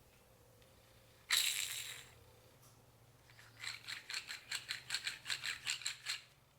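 A dry, worn-out clutch release (throw-out) bearing from a pickup truck, turned by hand. It gives a short rasping whir that fades, then a quick run of rattling clicks. The rough, rattly running is the sign of a bearing with no grease left, the cause of the hum heard when the clutch pedal is pressed.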